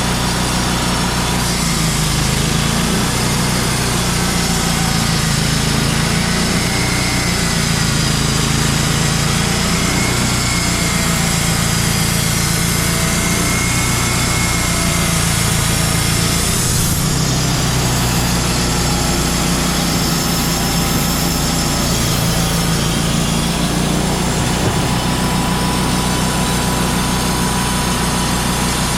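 Engine of a Wood-Mizer portable band sawmill running steadily at a constant pitch, with a slight change in tone about two-thirds of the way in.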